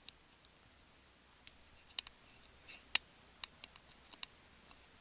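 Faint, scattered clicks and taps, about half a dozen, the loudest about three seconds in.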